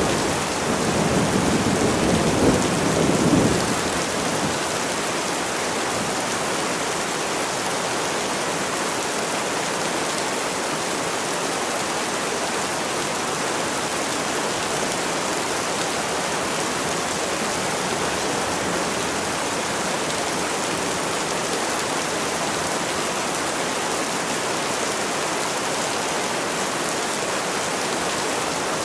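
Steady rain falling, an even hiss. A low rumble of thunder rolls through the first four seconds, then fades.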